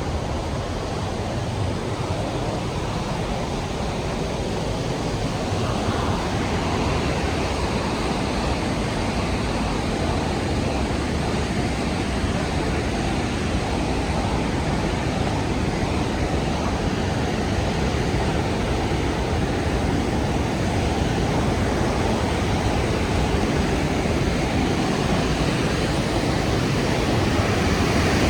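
Rhine Falls waterfall: a steady rush of heavy falling water, growing a little louder after about five seconds.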